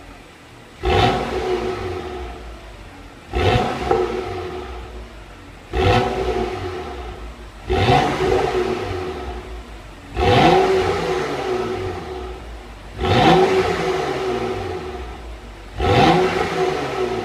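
BMW X6 xDrive35i's turbocharged 3.0-litre straight-six revved through an M Performance exhaust, engine warm. Seven quick throttle blips, about one every two to three seconds. Each one rises sharply and the revs then fall back to idle.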